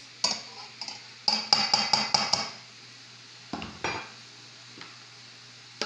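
Kitchen utensils clinking against a bowl while yogurt is measured out: a click, then a quick run of about six ringing clinks just over a second in, and a duller knock a couple of seconds later.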